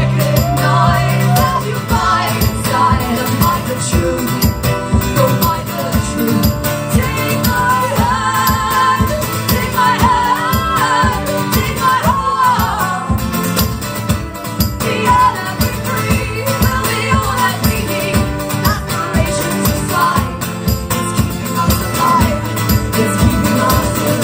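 Live band music: strummed guitars over a steady beat, with a wavering melody line sung without clear words.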